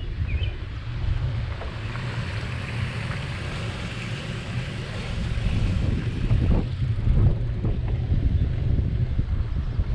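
Wind buffeting the microphone of a camera riding on a moving bicycle: a gusty low rumble, with a hiss of outdoor air that swells for a few seconds in the middle.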